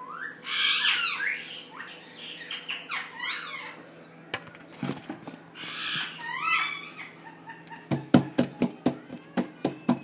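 A bird calling in three bursts of quick squawks that sweep up and down in pitch. Near the end comes a fast run of about eight sharp taps.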